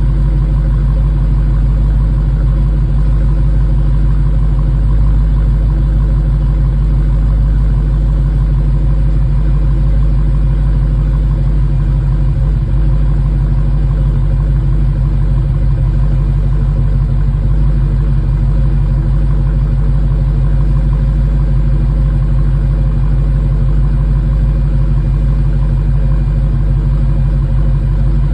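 Dodge Challenger engine idling steadily while warming up after a cold start, with no revving.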